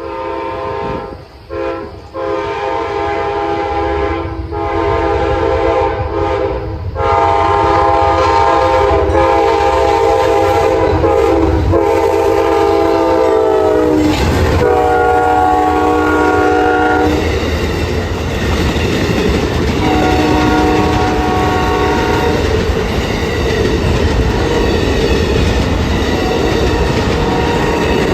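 Amtrak passenger train locomotive sounding its multi-note horn in a series of long blasts, the chord dropping in pitch about halfway through as it passes, then further lower blasts. A loud rumble and clickety-clack of the train rolling by runs under the horn from about a quarter of the way in.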